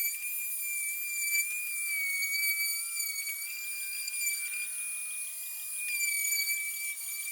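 Electric sander motor whining steadily at a high pitch while sanding the plywood workbench top, the pitch wavering slightly as the load changes.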